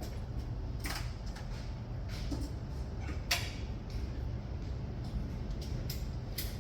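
Scattered light clicks and clinks of a 10 mm spanner working on a bolt, with one sharper click about three seconds in, over a steady low hum.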